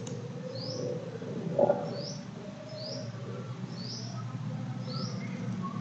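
A bird chirping over and over, a short high rising chirp about once a second, over a low steady room hum. A single brief knock sounds about one and a half seconds in.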